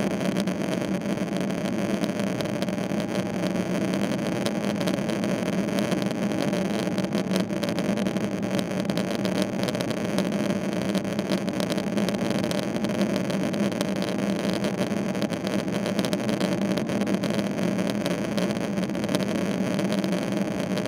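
Steady drone of a Boeing 777-300ER's GE90-115B turbofan engines and airflow, heard inside the passenger cabin. It holds an even level and pitch throughout.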